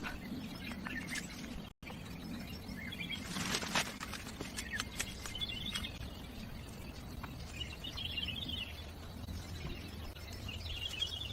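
Small birds chirping in short high trills every few seconds over a steady background hiss of the forest, with a momentary dropout to silence about two seconds in.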